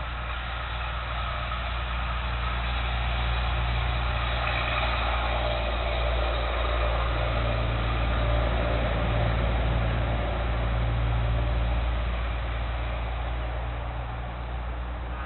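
A motor vehicle's engine running with a steady low hum, growing louder toward the middle and fading off near the end.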